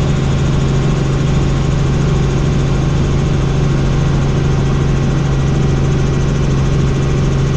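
Helicopter in flight: a loud, steady drone of rotor and engine with a strong low hum, unchanging throughout.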